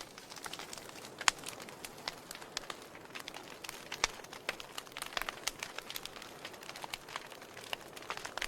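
Wood fire burning in a fireplace, crackling with irregular sharp pops over a soft hiss. The sharpest pops come a little over a second in and about four seconds in.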